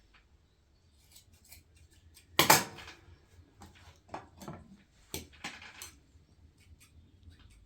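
Small hard objects being handled and set down, a run of clicks and knocks with one loud clatter about two and a half seconds in.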